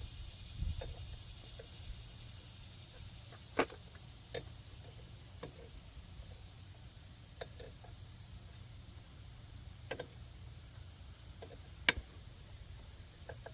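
Scattered sharp metallic clicks and light taps of hand tools working on an ATV's front hub and axle assembly, a few seconds apart, the loudest about twelve seconds in, over a faint steady low hum.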